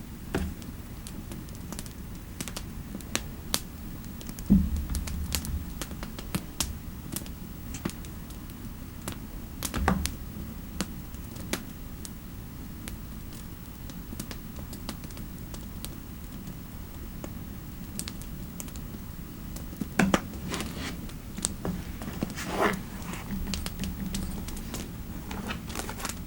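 Computer keyboard typing in irregular spurts of keystroke clicks, with a few heavier thumps.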